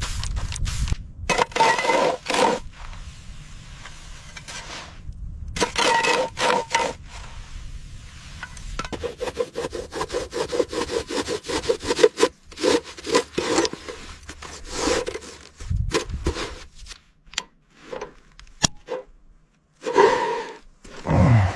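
Hand-work scraping and rubbing on a hard surface in repeated strokes, with a quick, even run of strokes in the middle and a few sharp clicks later on.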